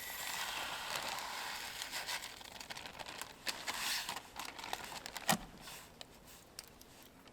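Crinkling and rustling from something being handled, with scattered small clicks and one sharp knock a little over five seconds in.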